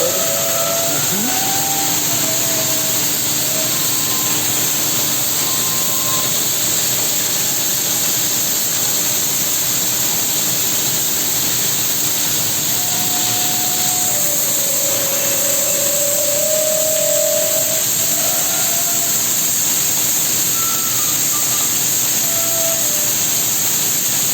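Steady, loud hiss and hum of industrial machinery in a workshop where vertical mill rollers are being hardfaced by continuous welding, with a few faint short whistling tones over it.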